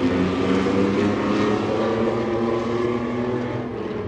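Several race trucks' engines running hard together on track, a steady overlapping engine note with small rises and falls in pitch.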